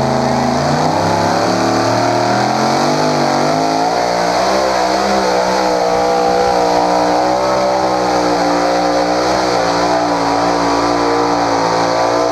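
Pulling tractor's engine at full throttle, dragging the weight sled down the track. Its pitch climbs over the first few seconds, then holds high and steady with a slight waver, and drops away at the very end.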